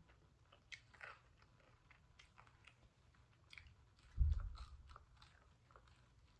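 Close biting and chewing of hard reheated pizza crust, with small crunches and crackles. A single low thump comes a little after four seconds in.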